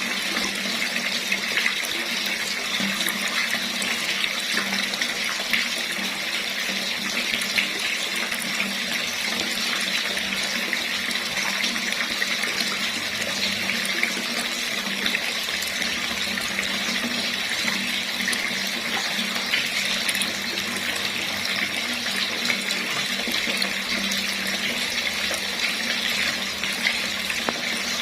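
Water running steadily from a tap and splashing into a basin, a constant rushing hiss with small crackling splashes.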